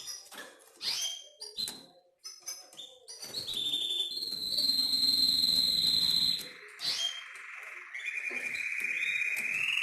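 Canary singing: short chirps and quick sweeps, then a long high trill held for about two seconds, then a lower, rapid trill near the end.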